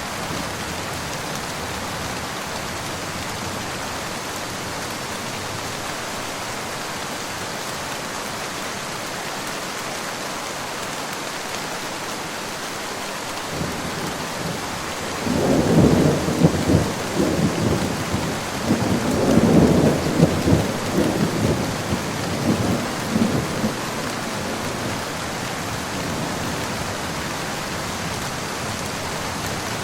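Steady rain falling, with a roll of thunder that builds about halfway through, rumbles and crackles in several surges for around ten seconds, then fades back under the rain.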